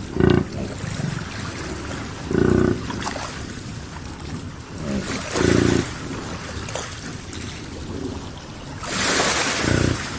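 Fur seals calling in a colony: four short, low barks spread over the stretch, a few seconds apart, over steady surf and wind noise. A wave washes in loudly near the end.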